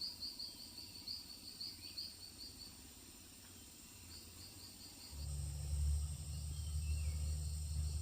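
An insect chirping in quick, evenly spaced pulses, about five a second, which pause after a few seconds and return briefly. About five seconds in, a steady low rumble starts suddenly and becomes the loudest sound.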